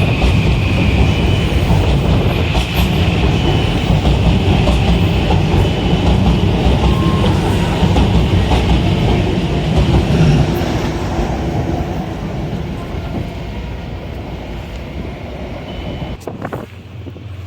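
Metro-North train passing close by: a loud, steady rumble of wheels on rail that fades away after about ten seconds.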